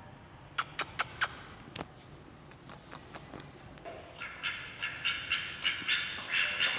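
Four sharp taps in quick succession, then from about four seconds in a run of short repeated high chirps, about three a second, from young birds squabbling.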